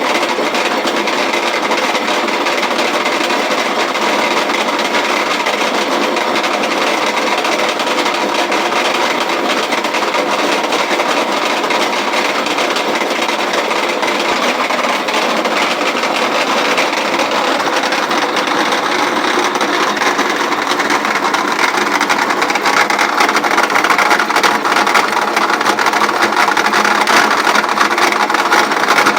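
Antique grain roller mill running, a steady dense rattle as grain is crushed between its rollers. It grows a little louder over the last several seconds.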